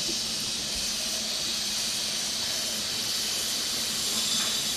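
Chicken satay skewers sizzling steadily on a charcoal grill, the sauce basting hissing on the heat.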